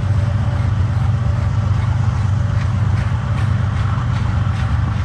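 CSX freight train rolling slowly past at a crossing: a steady low rumble with a few faint clicks of wheels over rail joints in the second half.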